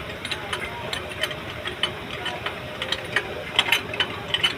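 Irregular mechanical clicking and ratcheting, scattered sharp metallic ticks over a steady low hum.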